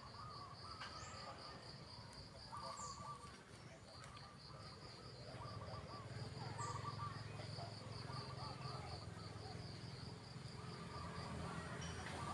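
Insects chirping in a steady, fast-pulsing high trill, with a low hum growing in from about halfway.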